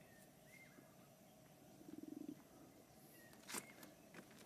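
Near silence: faint outdoor background, with a brief low, pulsing sound about two seconds in and a soft click about three and a half seconds in.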